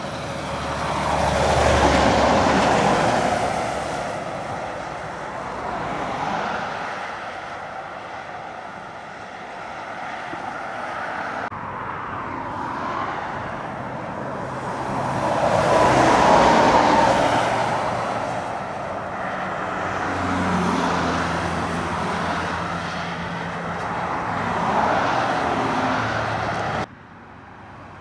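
Heavy lorries with big diesel engines pulling hard up a long climb, passing one after another with engine and tyre noise swelling and fading; the loudest passes come about two seconds in, past the middle and near the end. The sound cuts abruptly twice as one recording gives way to the next.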